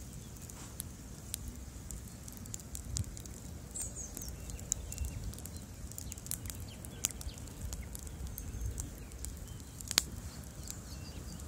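Bonfire burning: a steady low rumble of flames with scattered crackles and small pops, and one sharper pop about ten seconds in.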